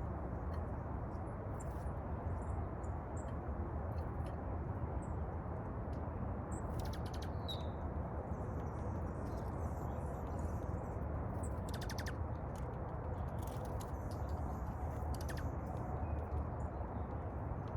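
Small birds giving faint, short high chirps and a few quick trills over a steady low background noise.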